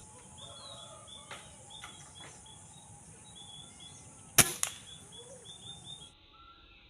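A single sharp shot fired while hunting sparrows, about four seconds in, followed a moment later by a second, smaller crack. Short repeated bird chirps and a steady high hiss run beneath; the hiss cuts off about six seconds in.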